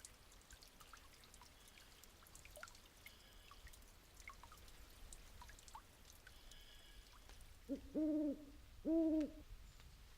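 An owl hooting: a short note, then two hoots about a second apart near the end, over faint scattered ticks.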